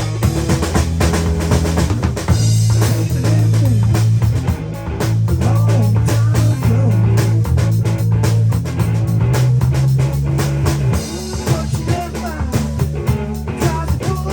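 A live band playing an instrumental passage: a drum kit keeps a busy beat with snare and bass drum under a loud, sustained bass line, with guitar lines winding above.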